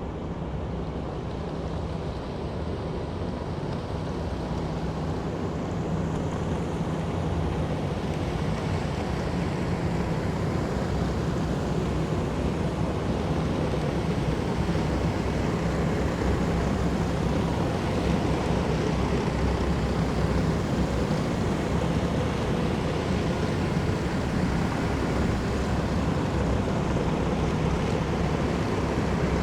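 Column of heavy military vehicles driving past: a dense, steady rumble of big engines and road noise that grows louder over the first several seconds, then holds.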